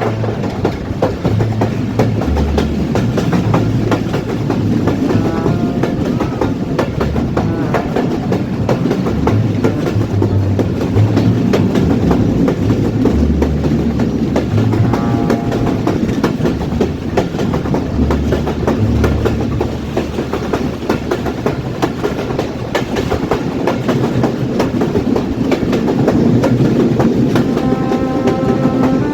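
Train running on rails: a steady rumble with the clickety-clack of wheels over the track.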